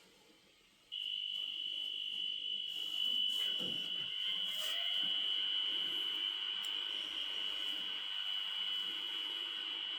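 Sound decoder of a model Pendolino electric train playing its start-up sequence for drawing power from the overhead wires: a steady high whine switches on about a second in and holds, with a short falling sweep just before four seconds.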